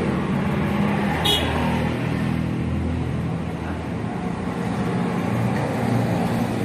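Steady engine noise of road traffic running nearby, with a brief high chirp about a second in.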